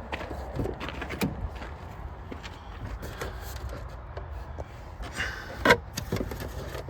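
Footsteps and handling noises at a vehicle: scattered clicks and scuffs, with one sharp knock a little over five seconds in, over a low steady hum.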